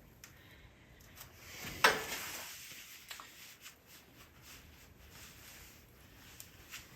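Parts being handled and fitted on an ATV frame: one sharp knock about two seconds in that trails off in a brief scrape, with scattered light clicks and taps.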